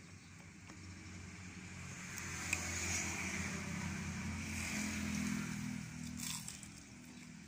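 A motor vehicle passing by, its engine sound swelling to a peak around the middle and fading away again.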